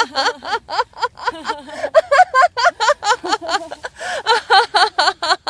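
People laughing loudly and steadily in quick, rhythmic "ha-ha-ha" bursts, about four or five a second: deliberate laughter-yoga laughing, not a reaction to a joke.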